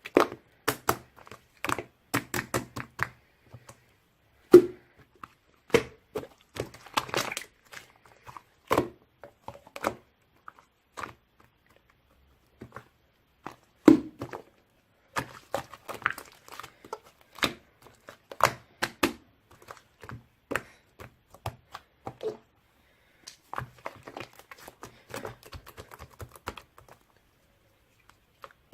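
Irregular knocks, taps and clicks with brief rustling, like objects being handled; two louder thumps stand out, one about four seconds in and one about halfway through.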